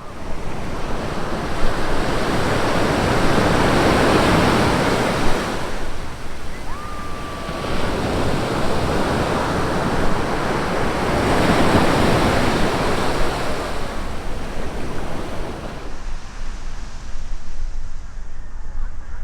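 Sea waves washing onto a beach: two long surges swell and fade about seven seconds apart, then the surf settles lower near the end. A steady low rumble of wind on the microphone runs underneath.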